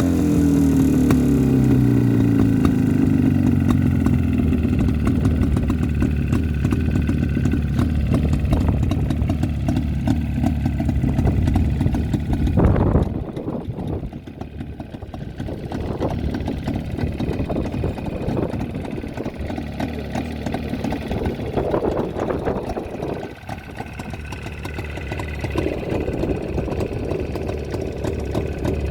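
Jawa 350 two-stroke twin-cylinder motorcycle engine idling, its revs settling down at the start. About halfway through the sound suddenly gets quieter, then it runs on unevenly with small swells.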